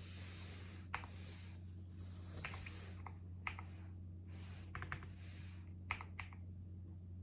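Scattered, unhurried keyboard keystrokes, a few single clicks and short pairs, with soft rustling between them over a steady low electrical hum.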